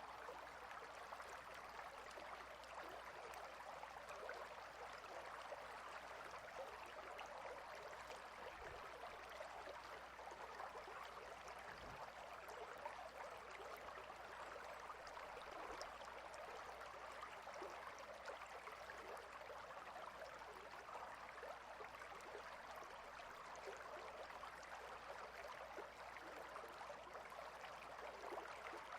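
Clear river flowing among rocks, a faint, steady babbling rush of water.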